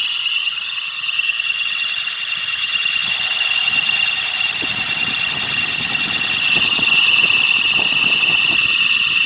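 Hyundai Accent engine running with a steady high-pitched squeal and a rough scraping from the power steering pump. The squeal grows louder near the end. The owner traces it to the pump's bearing under belt tension.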